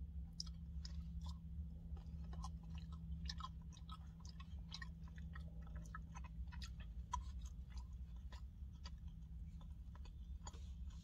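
A person chewing a mouthful of steak and rice, with many small wet clicks of mouth and plastic fork, over a steady low hum inside the car cabin.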